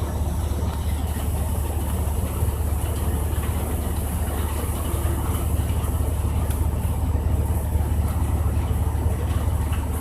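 Heavy rain in strong wind: a steady hiss of rain over a loud, unbroken low rumble of wind buffeting the microphone.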